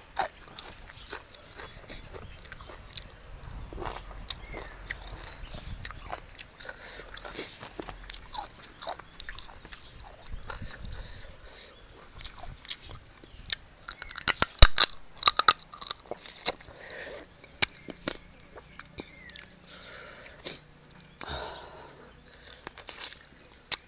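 A person chewing and biting food close to the microphone, eating spicy seafood papaya salad with fresh shrimp and blue crab. Many short crunches and clicks, with a loud cluster of sharp crunches about 14 to 16 seconds in.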